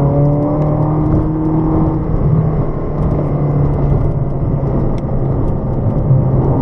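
Car engine pulling under throttle, its pitch climbing gently for about two seconds and then holding steady, over steady road and wind rumble.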